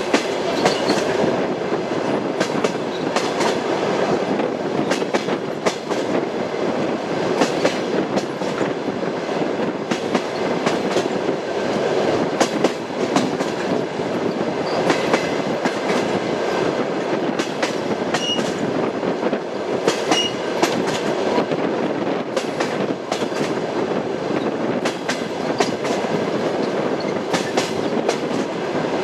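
A moving passenger train: a steady rumble with the rhythmic clickety-clack of its wheels knocking on the rail joints.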